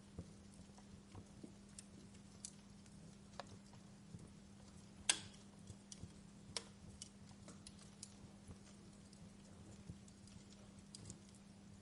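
Logs crackling in a fireplace fire: faint, irregular snaps and pops, with one sharper pop about five seconds in, over a steady low hum.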